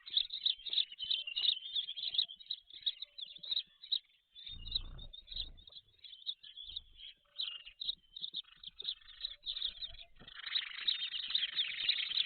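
Birds chirping rapidly and continuously in short high notes, growing into a denser chorus near the end. A brief low rumble comes about five seconds in.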